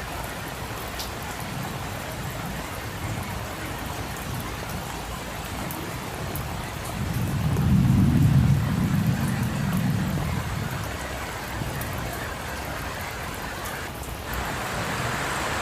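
Steady rain falling on a street, with a low rumble that swells and fades midway. Near the end a brighter hiss rises over the rain.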